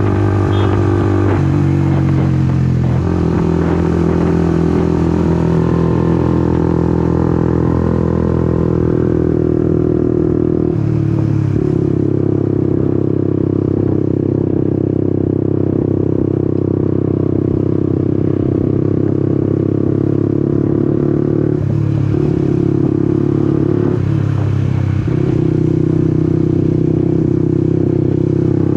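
Honda CBR150R's single-cylinder engine running steadily under way. The engine note breaks briefly and settles at a new pitch a few times: about three seconds in, around eleven seconds, and twice between about twenty-two and twenty-five seconds.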